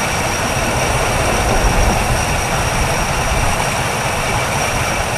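1962 Chevrolet engine running steadily at idle, warmed up, with its valve train quieted down on fresh oil.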